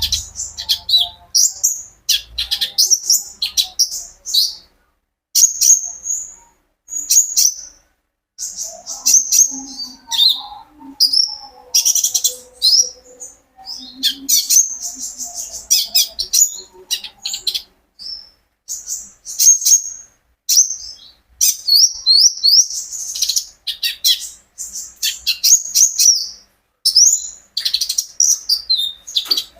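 A brown-throated sunbird (konin, or kolibri ninja) singing in a lively, full song: rapid high chirps and quick trills in short bursts, with brief pauses between phrases.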